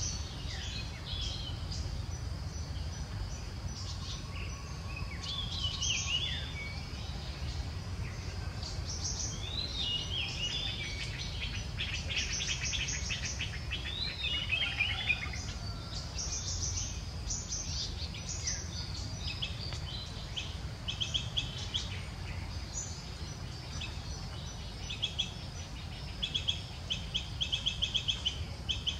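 Wild birds chirping and calling, with short falling whistles and quick trills, over a steady low background rumble.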